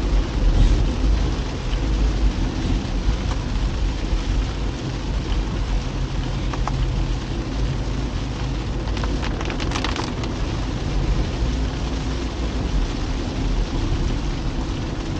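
Rain falling on a moving car, over a steady low rumble of tyres and engine on the road. A short cluster of clicks comes about nine to ten seconds in.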